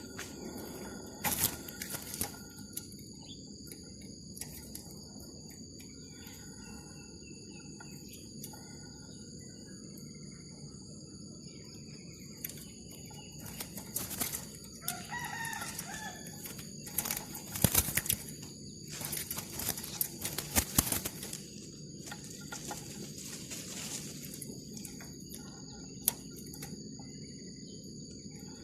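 Bird calls in woodland over a steady high insect drone, with a few loud rustling bursts, the loudest about 17 to 21 seconds in.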